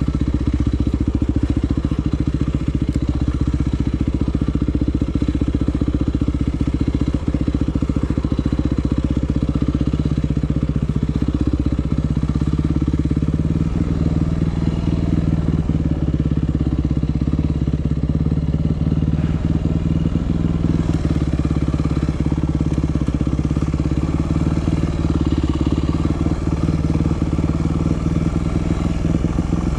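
Yamaha WR250F enduro motorcycle's single-cylinder four-stroke engine running under load, its pitch holding fairly steady.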